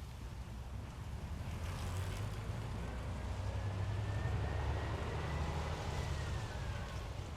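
Wind buffeting the action camera's microphone in a steady low rumble, while a vehicle passes, its sound swelling to a peak about four to five seconds in and fading again, with a faint whine that rises and then falls.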